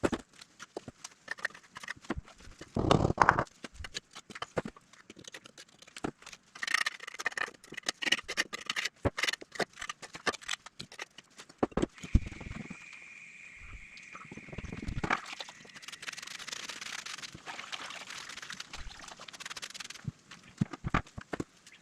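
Irregular knocks and taps of hand work on hard building material, with a heavier thud about three seconds in. Midway there is a short steady high whine, followed by a few seconds of rasping, scraping noise.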